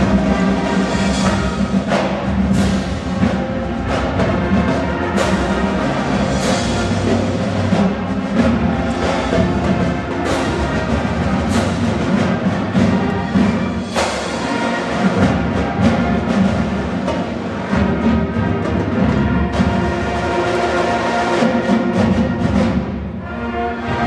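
Marching band playing a full piece: brass over drums, with frequent sharp percussion strikes.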